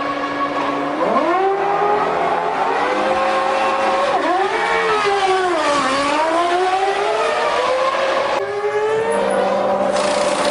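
A 1999 Formula One car's V10 engine running low and steady, then revving up from about a second in, its pitch climbing in steps with gear changes. The note falls and climbs again near the middle, and changes abruptly about eight seconds in.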